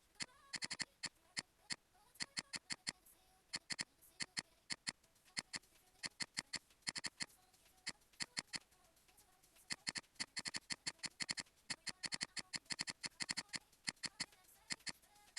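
Computer mouse clicking: many sharp, short clicks, some single and some in quick runs, at an irregular pace.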